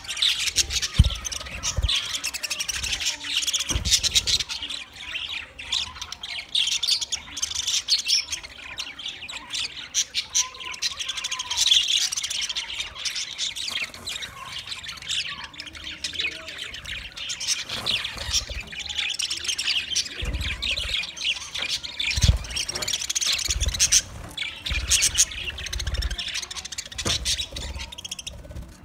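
A flock of budgerigars chirping and chattering together without a break, with occasional low thumps.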